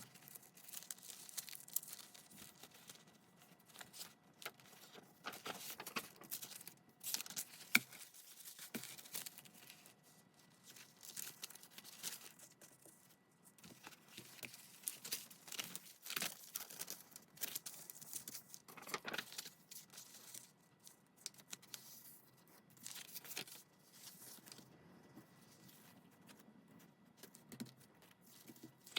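Paper being handled, torn and crinkled by hand: short, irregular rustling and ripping sounds throughout, fairly quiet.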